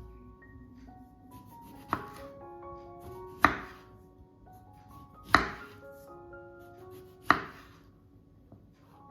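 Knife coming down on a cutting board in four slow, firm cuts, a couple of seconds apart, over soft background music.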